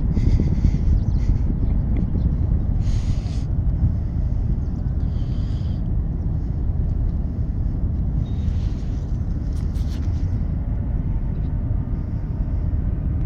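A steady, loud low rumble, with a few short hissing sounds over it.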